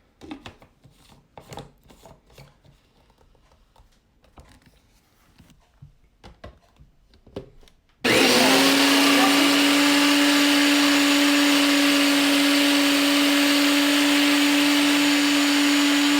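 Small clicks and knocks as the blender jar is closed, then about halfway through an electric blender switches on, spins up within a moment and runs at a loud, steady whir with a constant hum, blending the Caesar dressing.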